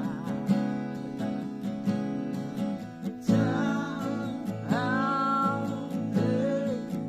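Acoustic guitar strummed in a steady rhythm, with a voice singing a melody over it partway through.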